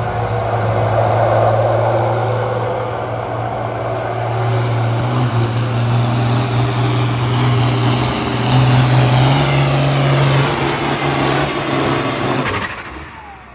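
Pulling tractor's engine running at full throttle as it drags the weight sled down the track, its note rising slightly late in the run, then dropping away sharply near the end as the run stops.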